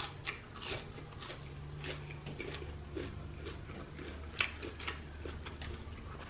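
A person chewing a mouthful of crispy deep-fried battered seafood: a string of soft crunches and small clicks, with one sharper click a little past four seconds in.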